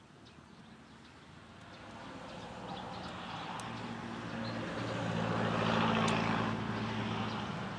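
Engine hum of a passing motor vehicle, growing steadily louder over several seconds, loudest about six seconds in, then beginning to fade.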